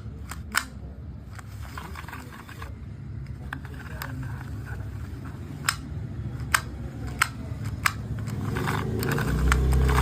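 Honda GX35 brush cutter's recoil starter being pulled and let rewind by hand: scattered sharp clicks, with a low rumble building near the end. The starter is working properly.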